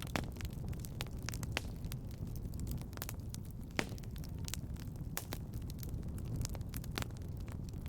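Wood fire crackling in a fireplace: irregular sharp pops and snaps, a few louder ones standing out, over a steady low rumble.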